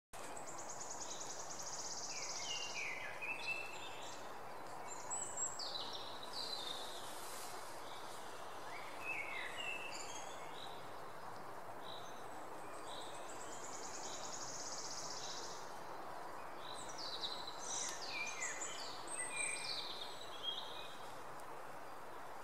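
Songbirds singing over a steady outdoor background hiss: a high rapid trill comes twice, about twelve seconds apart, among quick chirps and short falling notes.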